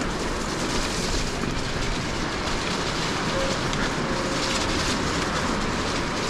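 Mountain bike rolling over a rough rocky track: tyres crunching over loose stones and the bike rattling, as a steady even noise.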